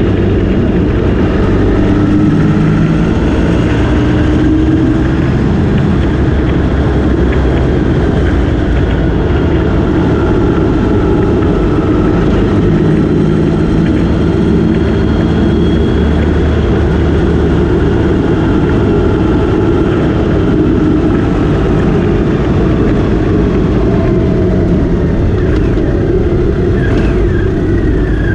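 Motorcycle riding at speed: heavy wind buffeting on the microphone over the engine, whose note slowly rises and falls in pitch.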